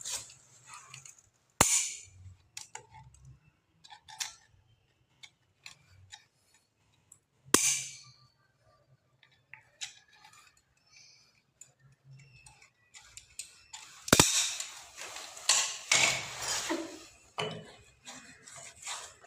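Sharp snaps of plumbing work, three loud ones about six seconds apart, amid fainter clicks and taps, with a stretch of scraping and rustling near the end.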